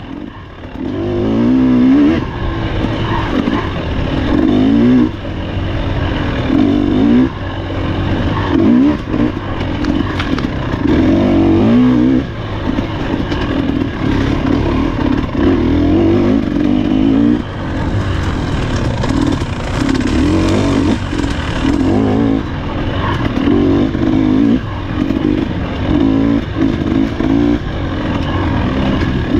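Husqvarna TE300 two-stroke dirt bike engine being ridden hard, revving up and easing off every second or two.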